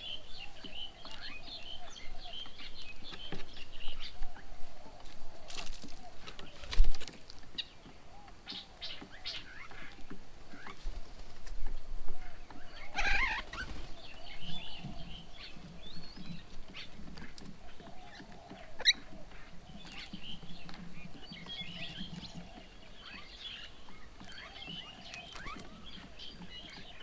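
Outdoor birdsong: small birds chirping and twittering on and off, with one stronger call about halfway through. Scattered taps and a sharp knock come early on the way.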